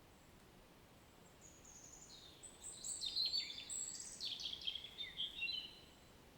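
A songbird singing one long, fast phrase of high chirps and short trills over a faint background hiss, starting about a second and a half in and stopping shortly before the end.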